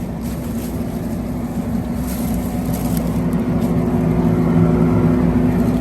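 Skid steer running a Quick Attach forestry mulching head with its cutter drum spinning free, not cutting, in a steady hum that swells a little about four seconds in. It runs smoothly, with no sound of bound-up bearings.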